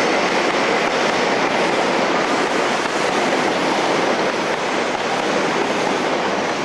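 InterCity 125 high-speed diesel train moving through the station, a steady rushing noise of its power car and coaches on the track.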